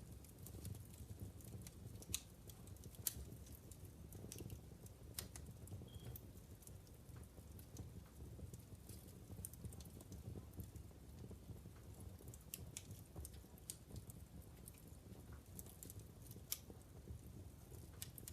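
Wood fire crackling in a fireplace: scattered sharp pops and snaps at irregular times over a low steady rumble of the burning logs.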